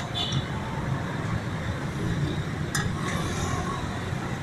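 Steady rumble of street traffic, with two sharp clicks about three seconds apart.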